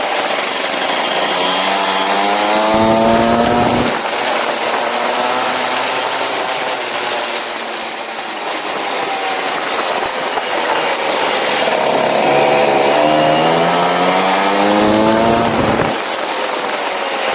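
Go-kart engine revving up in a steady rising climb for about three seconds, then dropping off abruptly as the throttle is lifted. After a stretch of lower running it climbs again for about five seconds and drops off near the end.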